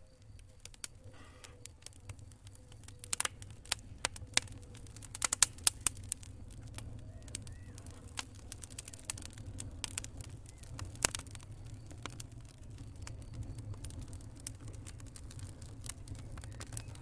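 Wood fire burning in a fireplace: irregular sharp crackles and pops over a steady low rumble of the flames, with a quick cluster of loud pops about five seconds in and another loud pop near eleven seconds.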